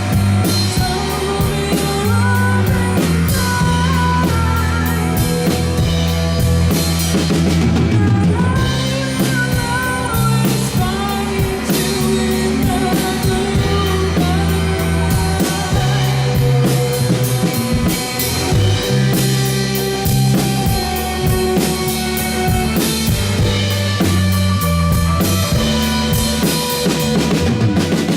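A psychedelic rock band playing live: a steady drum-kit beat under a heavy bass line, with a wandering electric guitar lead on top.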